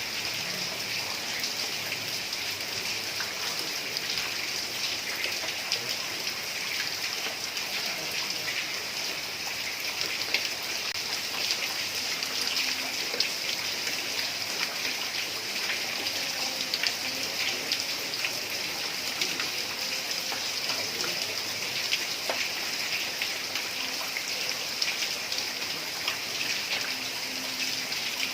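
Heavy rain falling on roof tiles: a steady hiss with many small drop ticks.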